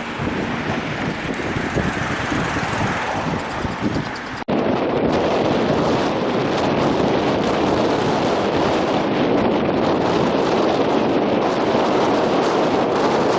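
Wind buffeting the microphone over a continuous rushing noise. About four and a half seconds in, the sound cuts off abruptly and resumes as a steadier, denser rush.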